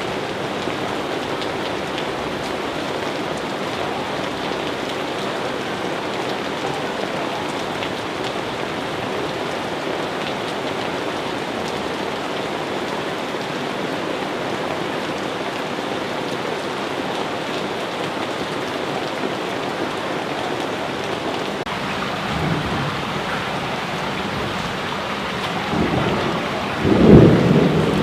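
Steady heavy rain falling, with thunder rumbling in over the last few seconds and loudest near the end.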